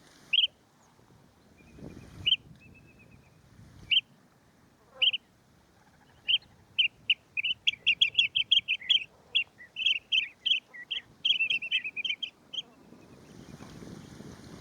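Lesser sand-plover calling. A few short, high single notes come a second or two apart, then a rapid run of chirping notes lasts about six seconds. A steady rushing noise comes in near the end.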